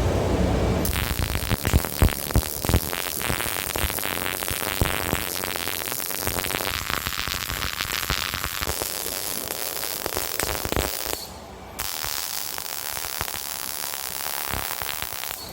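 Electric arc welding on steel: a steady crackling hiss full of sharp pops, which starts abruptly about a second in, cuts out for about half a second near the end and strikes up again.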